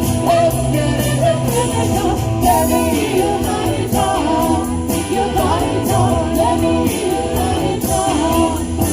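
Live cover band playing an 80s pop-rock song, with a woman singing lead over a steady drum beat and band accompaniment.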